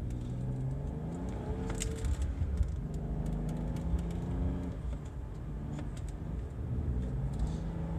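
A BMW 535i's turbocharged inline-six engine, heard from inside the cabin while driving. Its pitch climbs over the first two seconds, holds, drops about five seconds in, then climbs again.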